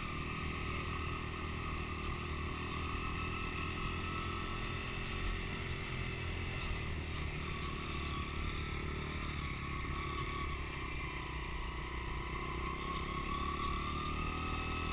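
Dirt bike engine running steadily at low speed, its note wavering and rising a little near the end.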